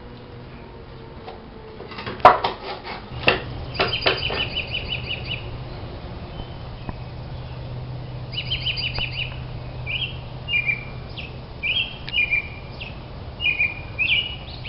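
A few sharp knocks and clatters about two to four seconds in, likely wood pieces handled just after a chop saw cut, over a steady low hum. A small bird then sings repeatedly in quick trills and short chirps until the end.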